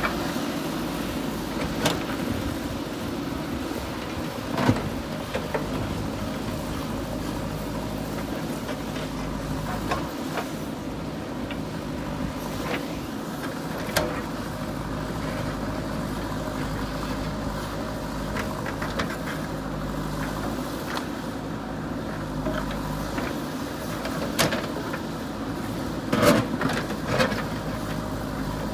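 JCB 3DX backhoe loader's diesel engine running steadily under work, with occasional sharp knocks and clanks, the loudest a short cluster near the end.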